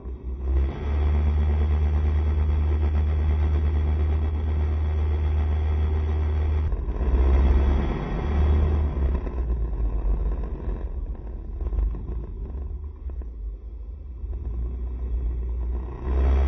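Honda SCR110 scooter being ridden: its small single-cylinder engine running under a heavy low rumble of wind and road noise on the microphone, easing off for a few seconds near the end.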